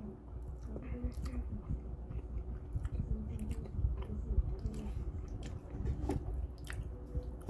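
A person chewing a mouthful of food with the mouth closed, making irregular small clicks and mouth noises.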